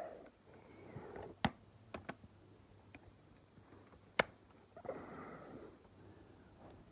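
Sharp plastic clicks and taps from a Lego truck being handled, two of them louder, about a second and a half and four seconds in. Between them are softer stretches of rustling, breath-like noise.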